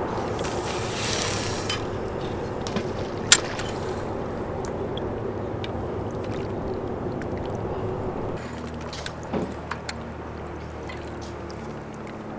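Steady drone of a passing boat's engine on the river, its tone shifting lower about eight seconds in. A brief hiss near the start and a sharp click a few seconds in.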